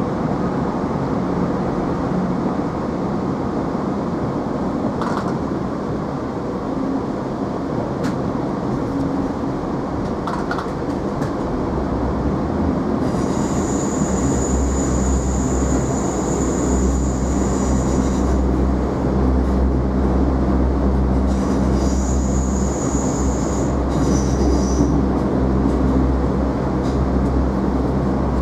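Interior of a Chiltern Railways Class 165 diesel multiple unit on the move: steady running noise, with a low engine drone that strengthens about halfway through. High-pitched wheel squeal comes in twice in the second half, the first lasting about five seconds.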